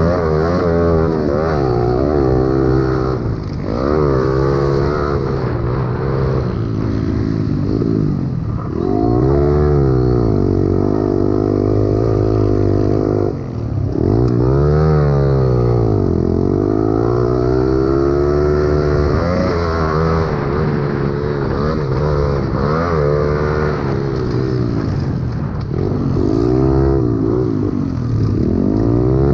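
A pit bike's small single-cylinder engine racing hard. Its pitch climbs and falls back over and over, every few seconds, as the rider opens the throttle and backs off.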